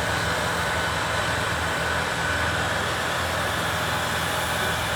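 Steady mechanical drone of a boom lift's engine and hydraulics running as the platform is raised, over a constant wash of traffic noise.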